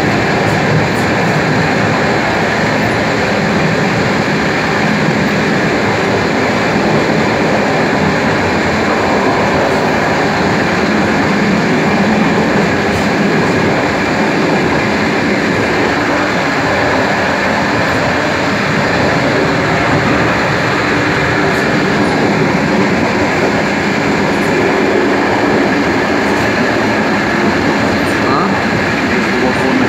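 DR1A diesel railcar under way: the steady running noise of the train, with its wheels clattering on the rails.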